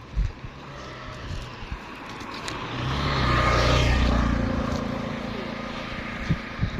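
A motor vehicle engine passing by, its hum growing louder to a peak about halfway through and then fading. A sharp thump comes just after the start, and a few knocks come near the end.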